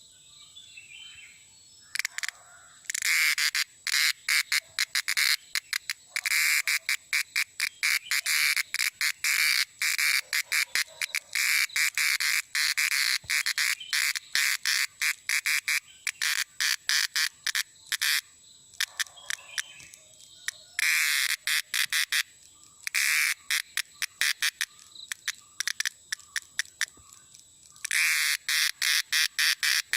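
Cicada calling: a loud, rapid pulsing buzz in long bursts, starting about two seconds in, breaking off for a few seconds twice in the second half and resuming near the end. A faint steady high-pitched tone runs underneath.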